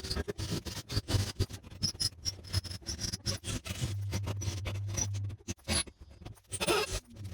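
Rapid scraping and clicking of tool work on a rusted bolt in the caravan floor, with a steady low hum for about a second and a half in the middle.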